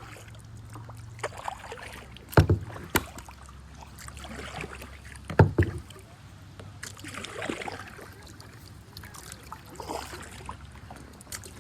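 Kayak paddling: paddle strokes splashing and dripping in the water, with three sharp knocks, two close together and a third a few seconds later.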